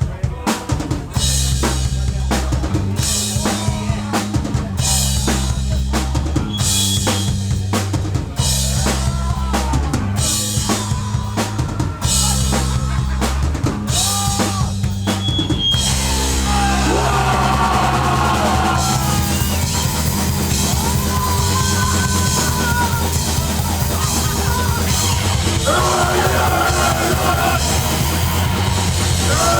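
Hardcore punk band playing live, with drum kit, bass and distorted guitar. A stop-start riff of hits with short breaks gives way about halfway through to a fast, unbroken full-band section.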